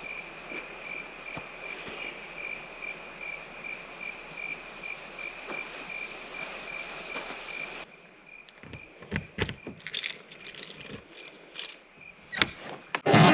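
Insects chirping in a steady, rapidly pulsing high trill. About eight seconds in it cuts off, and scattered clinks and knocks follow, like small metal things being handled.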